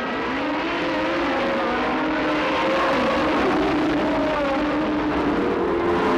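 Several 1970s Formula One car engines running at once, their notes overlapping and rising and falling in pitch as they rev.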